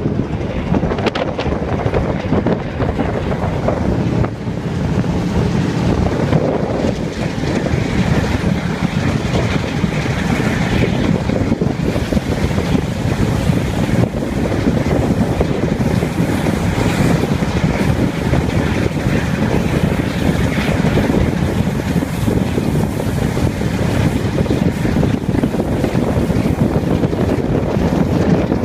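Wind rushing over the microphone held out of a moving passenger train's window, mixed with the train's steady running noise on the rails. It is loud and even throughout.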